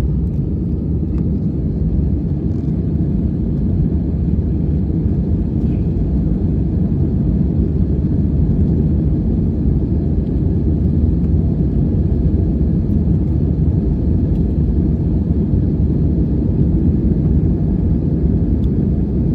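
Steady low rumble of an airliner's cabin noise, the engines and airflow heard from inside the passenger cabin.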